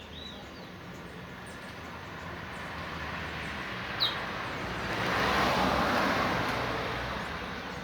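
A passing vehicle, its noise swelling to a peak about five seconds in and then fading, while a twa-twa finch gives a few short high chirps, one sharp and loud about four seconds in.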